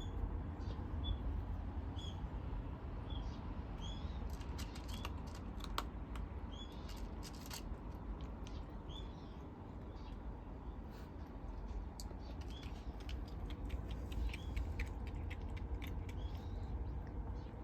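Kittens crunching dry cat food, a scatter of small sharp clicks and crunches, over short high chirps that recur about once a second.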